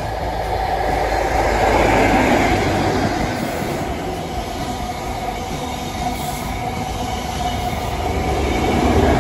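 A Great Western Railway diesel High Speed Train, with Class 43 power cars at each end, passing close at speed. The leading power car goes by loudest about two seconds in. The coaches then rush past with steady wheel-on-rail noise, and it grows loud again near the end as the rear power car nears.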